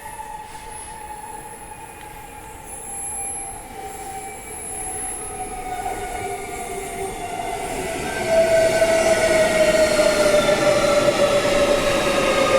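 Perth electric suburban train pulling into the platform, growing steadily louder and louder still about eight seconds in. It has a whine that falls in pitch as it slows.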